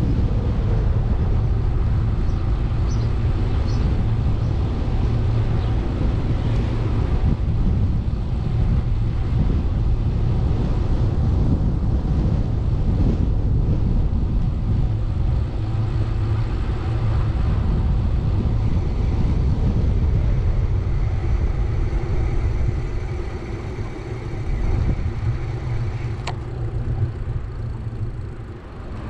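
Steady low rumble of wind and road noise picked up while riding a bicycle through town streets, easing a little near the end.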